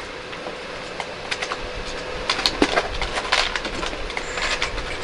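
Plastic LEGO bricks being handled and pressed together: a run of irregular small clicks and clatters.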